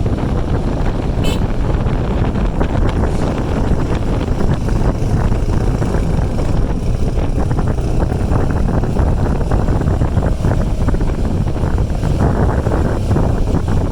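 Motorcycle riding along, its engine running under heavy wind rushing over the microphone.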